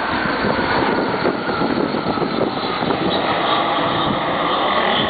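A military aircraft flying low overhead, its engines making a loud, steady drone.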